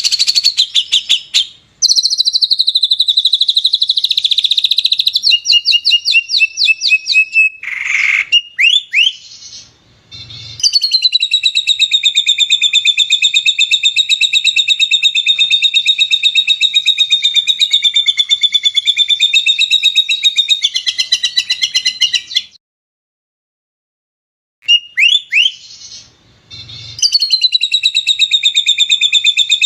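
Recorded songbird song: loud, fast-repeated chirping trills, spliced together with abrupt silent gaps between pieces, including one long unbroken rapid trill lasting about twelve seconds from about ten seconds in.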